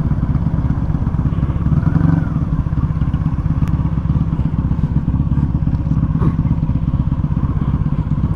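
1996 Honda Magna 750's straight-piped V4 engine running steadily, a dense low exhaust rumble with a slight swell about two seconds in.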